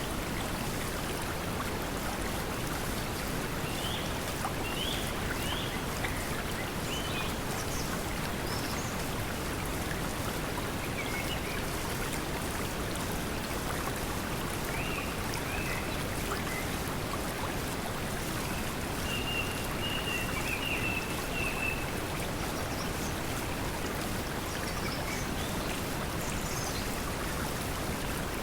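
Steady pink noise blended with flowing water, with faint bird chirps and calls now and then, one longer warbling call about two-thirds of the way through.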